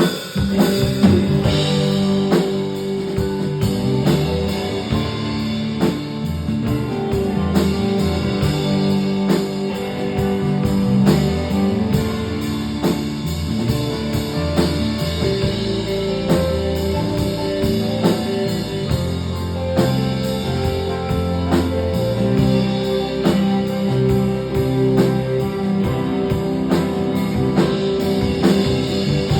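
A rock band playing an instrumental passage: guitar over bass and drum kit, with a steady beat.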